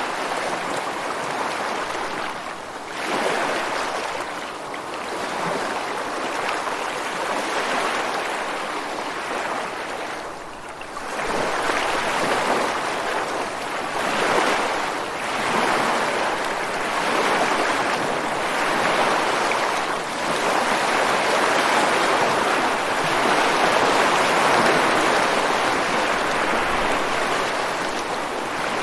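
Ocean waves breaking and washing onto a beach and rocks: a continuous rush of surf that swells and ebbs every few seconds, with a short lull before a larger wave comes in about eleven seconds in.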